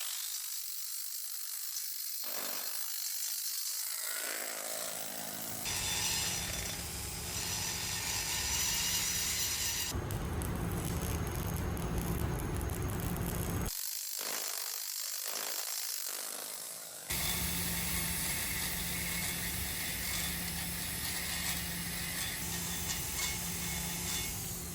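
Electric arc welding on a cast turbocharger turbine casing to repair an exhaust gas leak: a steady hiss with a constant low hum underneath, broken by several abrupt cuts between clips.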